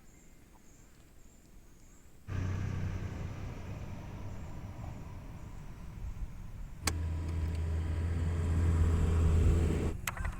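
Suzuki Burgman 650's parallel-twin engine running at idle through a Yoshimura R77 carbon full-system exhaust: a steady low engine sound that comes in suddenly about two seconds in, with a sharp click and a step up in level about seven seconds in.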